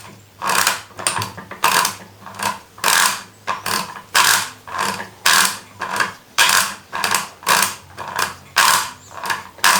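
Brastemp/Consul top-load washing machine agitating, its drive giving a sharp ratcheting clack about twice a second over a low motor hum. This is the agitation noise typical of a worn cam (came) assembly, whose tabs and ridges wear thin.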